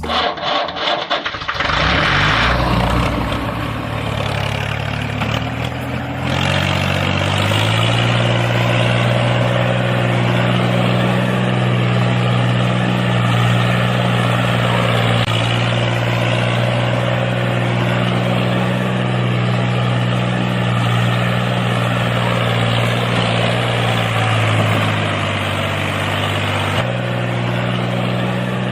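An engine running steadily, its pitch stepping up about seven seconds in and dropping again near the end.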